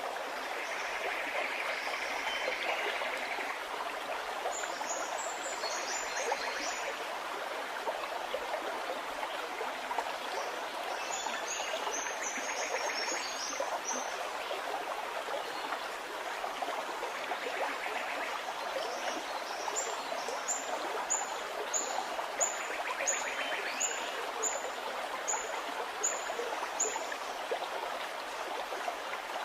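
A stream of water running and gurgling steadily, with small birds chirping high above it: two short flurries of chirps early on, then a run of about a dozen evenly spaced short notes, a little under two a second, in the second half.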